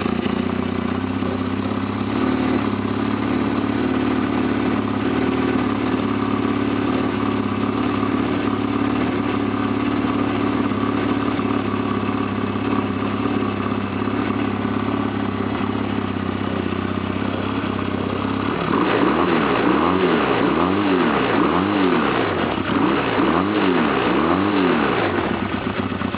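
1991 Honda Nighthawk CB250's air-cooled parallel-twin engine, just started from cold, idling steadily. About eighteen seconds in it gets a little louder and its tone starts to sweep up and down.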